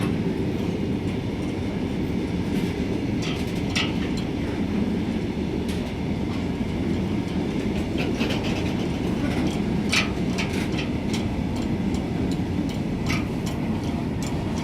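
Train running along the track: a steady low rumble with brief sharp clicks from the wheels and rails now and then.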